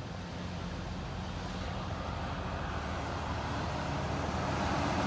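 Road traffic beside a level crossing: a steady low engine hum with the noise of a vehicle approaching, growing steadily louder.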